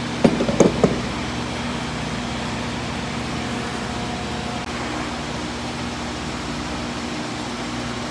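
A few sharp clicks, like tools knocking on metal, about a quarter second to a second in, over a steady mechanical hum that runs on without change.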